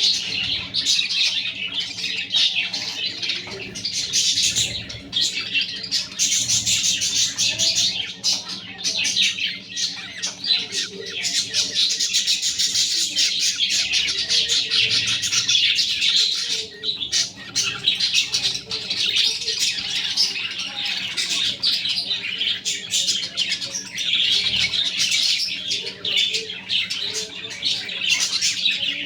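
Budgerigars chattering and chirping continuously in a dense, rapid warble, with a steady low hum underneath.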